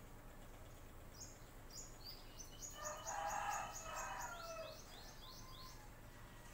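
Small birds chirping: a quick run of short, high chirps, about four or five a second, from about a second in until past the five-second mark. About three seconds in, a louder, lower sound with a steady pitch joins for about two seconds.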